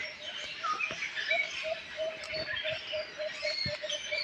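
Several birds chirping and calling at once in short, overlapping chirps and whistles, with a low note repeating about four times a second underneath.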